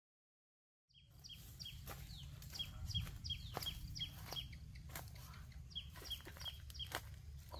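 After about a second of silence, a bird calls in two runs of short, high, falling notes, about three a second, over footsteps crunching in dry leaf litter.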